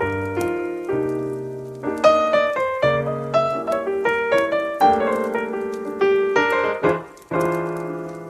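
Slow jazz piano music: chords struck and left to ring, changing about once a second over low bass notes, with a brief pause about seven seconds in.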